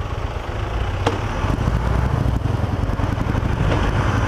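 Cruiser motorcycle engine running with a steady low rumble as the bike rolls slowly forward in traffic, with wind noise over it. A single short click about a second in.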